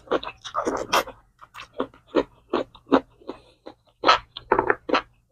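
Close-up mouth sounds of someone eating: a quick run of short, wet smacks and chews, about two to three a second.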